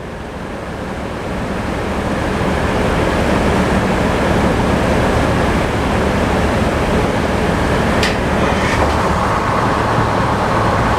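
Sawmill saw cutting a slice off a log, the noise building over the first couple of seconds and then holding steady, over the steady hum of the tractor engine driving the mill. A couple of brief knocks about eight seconds in.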